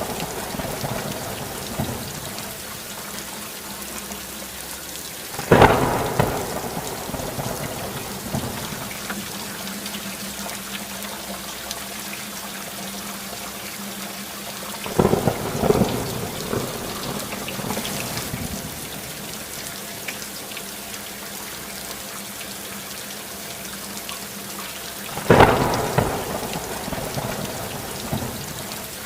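Steady rain with three sudden thunderclaps about ten seconds apart, each rumbling away over a second or two.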